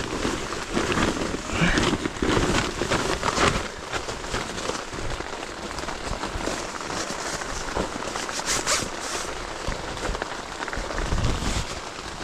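Heavy rain falling steadily, a dense patter of raindrops.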